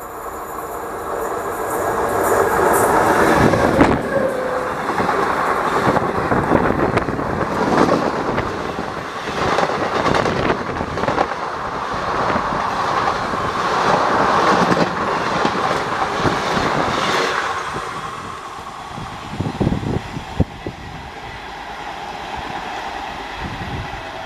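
Passenger train passing at speed behind a WAP-7 electric locomotive. The sound builds quickly as it approaches, then holds as a loud rush of wheels on rail with clickety-clack over the joints while the coaches go by. It fades as the train recedes, with a few sharp knocks near the end.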